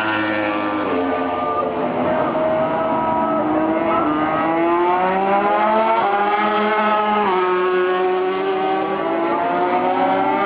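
MotoGP racing motorcycle engines, several bikes revving hard out of the pit lane at the same time. Their pitch climbs and drops back sharply at each gear change.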